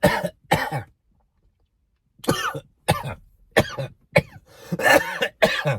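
A man coughing in a string of short fits after food has gone down the wrong way while eating. There are two coughs, a pause of over a second, then about six more in quick succession.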